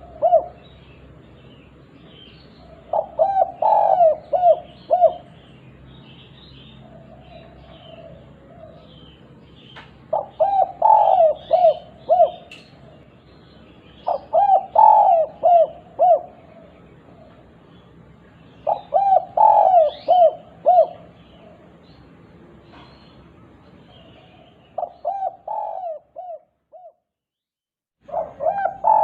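Spotted dove (derkuku) cooing in the 'kuk 2' style: phrases of several quick coo notes, repeated five times with pauses of a few seconds between them. This is a lure call to set other doves calling. Small birds chirp faintly behind it, and the sound cuts out briefly near the end.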